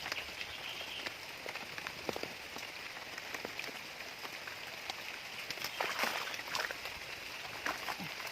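Steady rain hiss with scattered sharp drips and taps, which come thickest about six seconds in.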